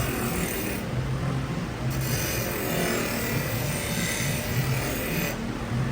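Steel chef's knife blade drawn again and again along the honing rail of an Instasharp portable knife sharpener, a steady scraping and rasping.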